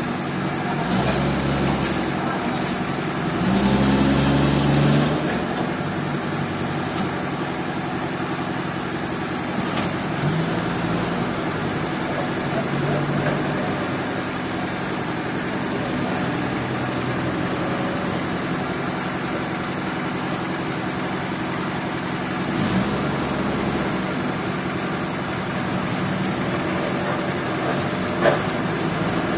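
An engine running steadily, with louder spells about a second in and again around four seconds in.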